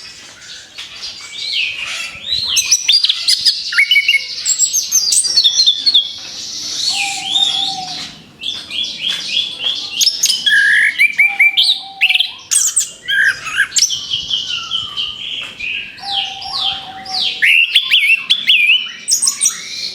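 Orange-headed thrush (anis kembang) singing a fast, varied song of rapid-fire phrases, with runs of quickly repeated notes and short pauses between bursts.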